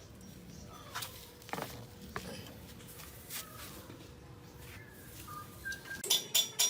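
Scattered light clicks and knocks over a faint steady tone. Music with a steady beat starts near the end.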